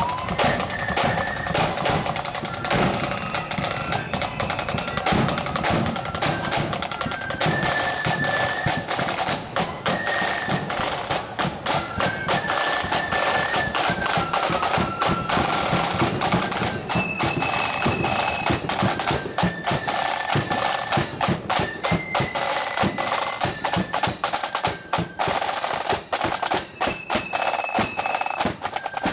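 Marching flute band playing a tune: flutes carry the melody in held notes over rapid snare drumming and drum rolls.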